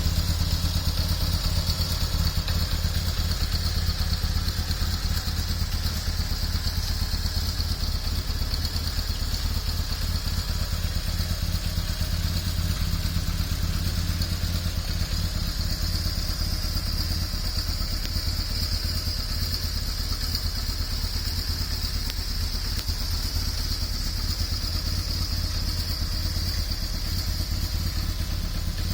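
BMW R1100S boxer twin idling steadily through a Staintune aftermarket muffler, a low, even exhaust burble with no revving. A steady high-pitched whine sits above it.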